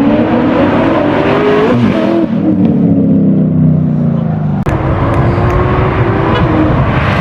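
Car engine accelerating hard at high revs, its pitch climbing, easing off, then climbing again after a sudden break about four and a half seconds in.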